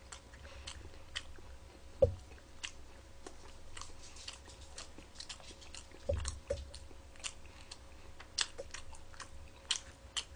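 Close-miked chewing of Pizza Hut Super Supreme pizza with many small wet mouth clicks and smacks. There is one dull thump about two seconds in and a couple of softer knocks around six seconds.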